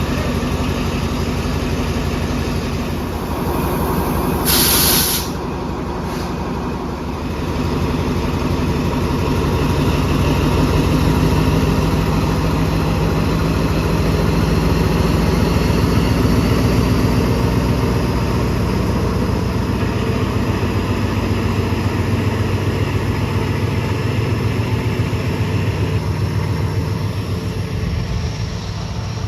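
Diesel train's engine running at a station, with a short loud burst of air-brake hiss about four seconds in. From about eight seconds the engine note grows louder and a faint high whine slowly rises in pitch.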